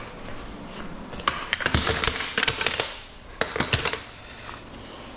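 Loose pieces of scrap metal clinking and clattering as they are handled and gathered up, in a busy run of knocks from about one to three seconds in, then a shorter bunch just after.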